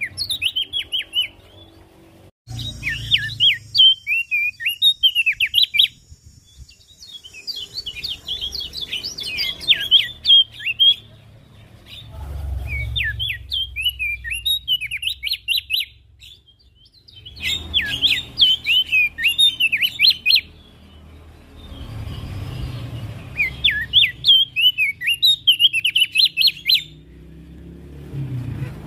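Javan grey-throated white-eye (opior jambul) singing: fast, chattering strings of high notes in repeated bursts of a few seconds, with short pauses between them.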